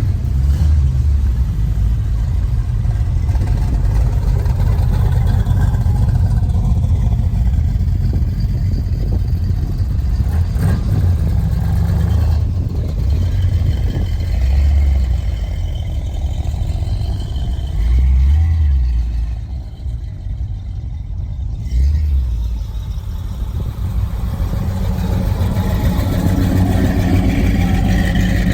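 Low, steady rumble of a car engine running, swelling a few times as it is revved.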